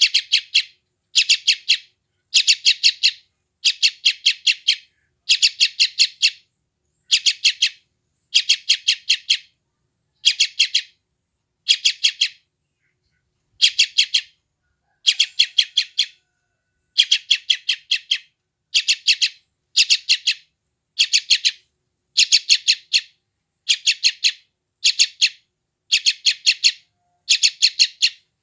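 Young yellow-vented bulbul (trucukan) chick calling in short bursts of several rapid, shrill chirps, about one burst a second, with silence between bursts.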